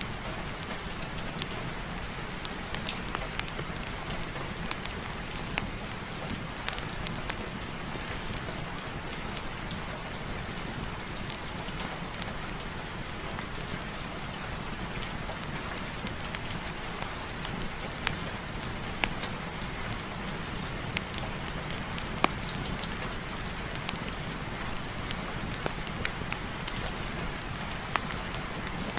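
Steady rain falling, with many scattered sharp clicks.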